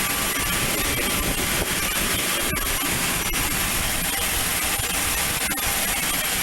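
Learjet's turbofan engines running nearby: a loud, steady rush of noise with a thin, steady high whine on top.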